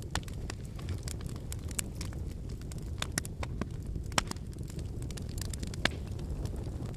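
Wood fire burning: a steady low rumble of flame under irregular sharp crackles and pops of firewood, with two louder snaps about four and six seconds in.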